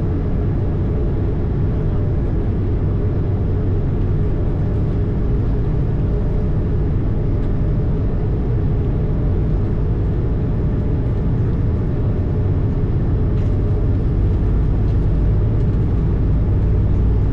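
Steady low rumble heard inside an Airbus A220 airliner, with a faint steady hum above it: the noise of its Pratt & Whitney PW1500G geared turbofan engines and the airframe under way.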